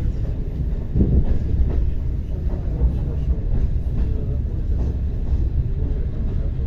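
ER9T electric multiple unit running along the line: a steady low rumble with occasional knocks from the wheels on the rails.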